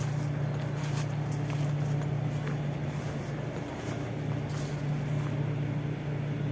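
Steady low hum of a vehicle in motion, with a few light clicks.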